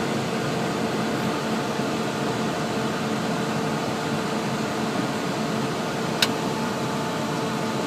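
Steady hum and rush of a Cessna Citation CJ3 business jet's cabin, with the turbofan engines running and cabin air blowing, before the takeoff roll. One sharp click about six seconds in.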